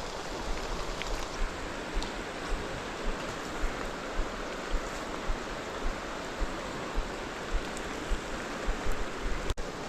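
Steady rushing of a creek, with regular footfalls about twice a second from walking along the trail.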